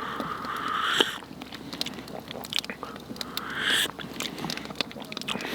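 A person tasting hot soup: two short slurps with wet mouth clicks and chewing in between.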